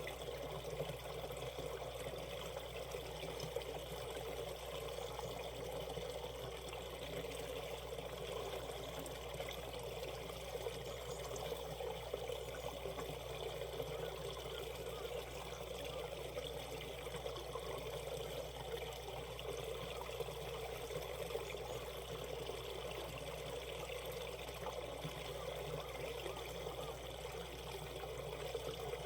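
Shallow valley stream running and trickling over rocks, a steady, even rush of water.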